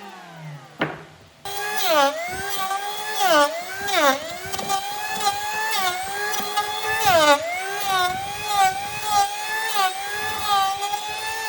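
Electric power tool motor whining. It coasts down at the start, starts again abruptly about a second and a half in, and its pitch dips sharply again and again as it is loaded in the cut. It begins to wind down near the end.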